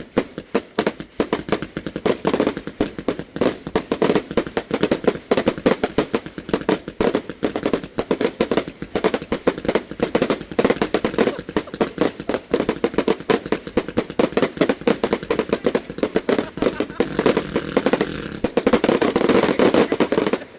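A 300-shot salute firework cake firing a rapid, unbroken string of loud bangs. Near the end the bangs thicken into a dense barrage, then cut off suddenly.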